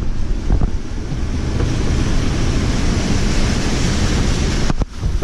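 Wind buffeting the microphone: a loud, steady, rumbling rush that dips briefly near the end.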